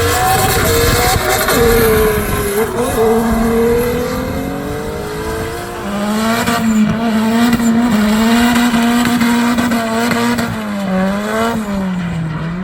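Drift car engine held at high revs, its pitch rising and falling with the throttle, with tyres squealing as the car slides.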